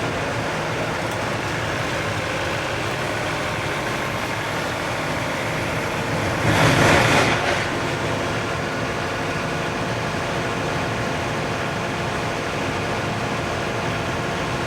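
Portable band sawmill running steadily under engine power, with a louder surge of noise lasting about a second around the middle.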